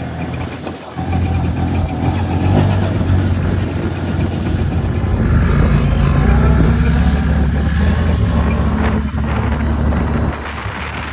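Quad bike engine running under way, getting louder about a second in and falling away near the end.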